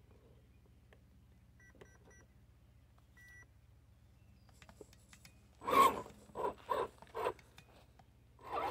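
A few faint short electronic beeps, then a run of short loud bursts from the RC truck as its electronics are tried after it lost forward and reverse; the owner puts it down to a failed servo.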